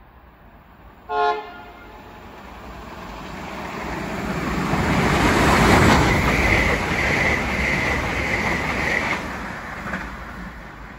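A train horn gives one short toot about a second in. Then a diesel passenger train passes through the station at speed without stopping: a rumble that builds to a peak and fades, with a steady high whine while the carriages go by.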